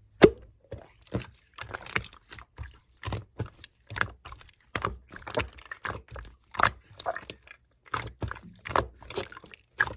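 Clear slime being squeezed and kneaded by hand, giving irregular wet clicks and pops, several a second, as trapped air bursts from the slime.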